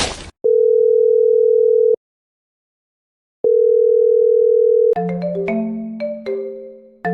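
Two long electronic beeps at one steady mid pitch, like a telephone tone, separated by a second and a half of silence, followed by a looping mallet-style music tune of short decaying notes about five seconds in. The tail of a loud boom fades out just at the start.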